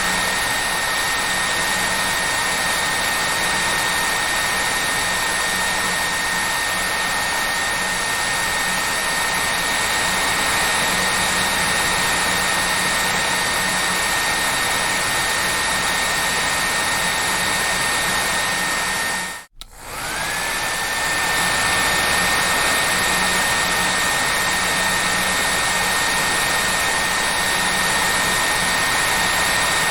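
Hair dryer running steadily: a loud even rush of air with a high motor whine. About two-thirds of the way through it cuts out for a split second, then comes back, the whine rising back up to pitch.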